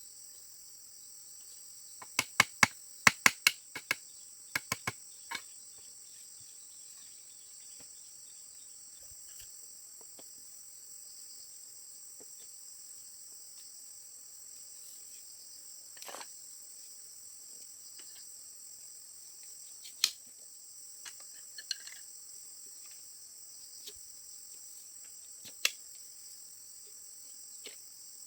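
Steady high-pitched chorus of insects chirring in the forest. A quick run of about a dozen sharp knocks comes about two seconds in, and a few single knocks follow later.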